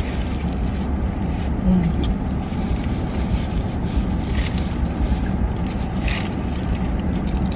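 Steady low rumble of a car cabin with the engine running, with a couple of faint short clicks or rustles.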